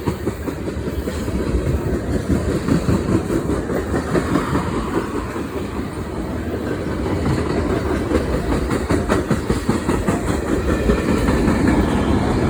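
Freight train of oil tank cars rolling past: a steady rumble of steel wheels on rail, with a constant run of clicks and clacks as the wheels cross the rail joints.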